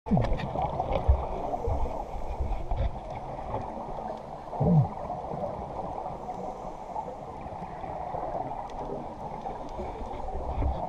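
Water sloshing and gurgling around a boat, muffled. There are low knocks through the first three seconds, and two short downward gurgles, one at the very start and one about halfway through.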